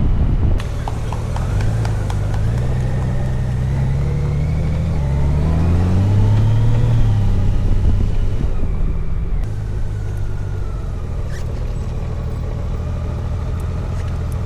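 Motorcycle engine running while riding, rising in pitch as it accelerates from about three to seven seconds in, then easing off.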